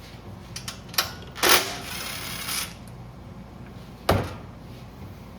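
Hand work on a small engine's metal parts: a few light metallic clicks, then a scraping clatter about a second and a half in that lasts about a second, and one sharp knock about four seconds in.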